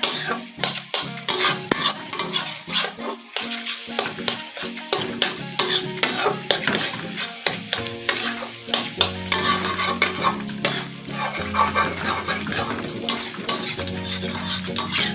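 Beaten eggs sizzling in hot oil in a kadai while they are stirred and scraped with quick, irregular strokes, scrambling them into egg bhujiya.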